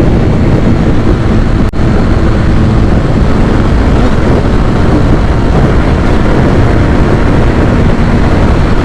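Kawasaki ZX-6R inline-four motorcycle engine running under way, heavily masked by loud, steady wind rush over the microphone, with a brief dropout about two seconds in. The rider says the bike isn't acting right; he thinks its carburettors need cleaning.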